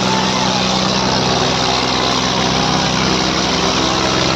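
Diesel tractor engine running steadily at a constant, fairly high pitch.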